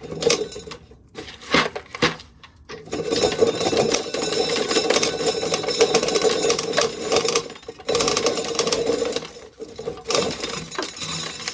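Corn sheller at work stripping kernels from the ears, with grain rattling. A few separate knocks come first, then a steady rattling run starts about three seconds in and breaks off briefly twice near the end.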